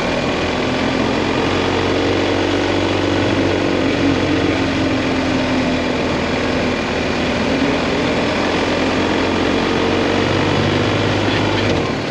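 BMW GS Adventure motorcycle's boxer-twin engine running while riding, its note drifting slowly down and up, over a steady rush of wind and road noise.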